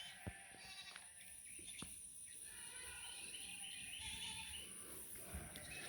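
Faint birdsong: small birds chirping in short repeated trills over quiet outdoor background noise.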